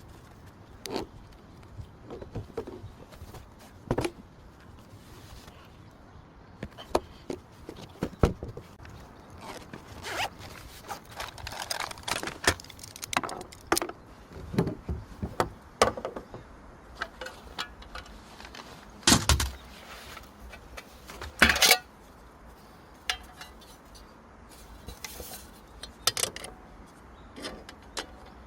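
Camping gear being handled: scattered clicks and knocks with rustling, and two louder scraping sounds about 19 and 21 seconds in.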